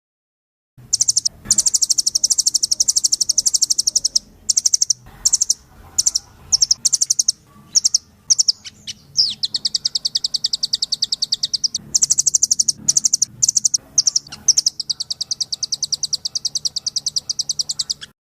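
Rambatan loreng, a nuthatch kept as a songbird, singing in loud, high, fast trills of rapidly repeated notes, in several runs broken by short pauses.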